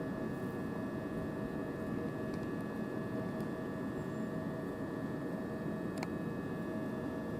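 Steady hum of an electric train standing at the platform: several constant tones over a low rumble, unchanging throughout.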